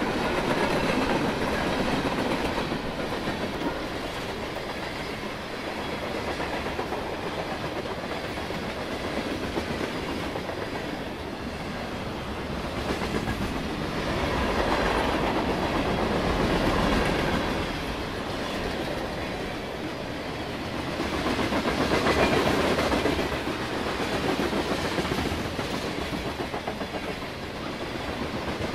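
Norfolk Southern mixed freight train's cars (coil steel cars, covered hoppers, tank cars) rolling past close by, steel wheels clicking steadily over the rails under a continuous rolling rumble that swells and eases several times as the cars go by.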